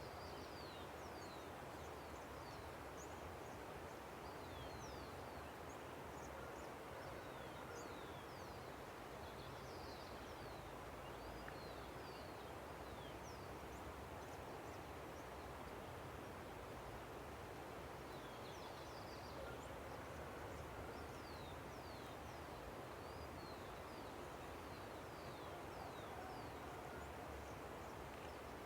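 Steady rush of a river, with many small birds chirping over it in short, quick, falling notes throughout.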